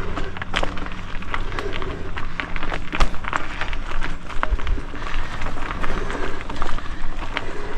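Mountain bike rolling over a rooty dirt trail: continuous tyre noise with many irregular sharp clicks and knocks as the bike rattles over roots and bumps.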